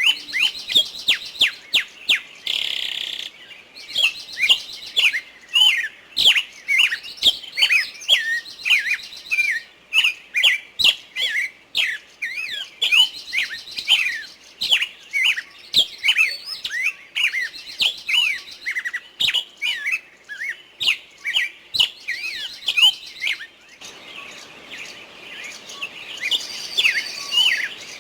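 Small birds chirping and twittering: many short, quick calls several times a second, mixed with a buzzy chatter.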